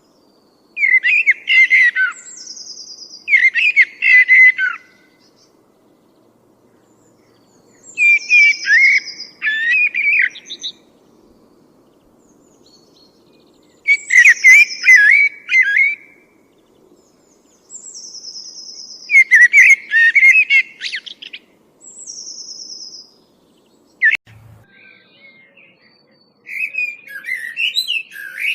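A songbird singing a run of separate song phrases, each a quick jumble of chirpy notes mixed with a short, high, buzzy trill, repeated every few seconds with pauses between.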